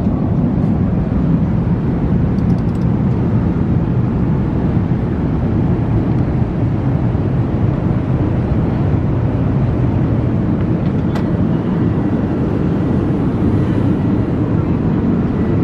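Steady cabin noise of an Airbus A380 in flight: an even, low rush of airflow and engine noise that does not change, with one faint click about eleven seconds in.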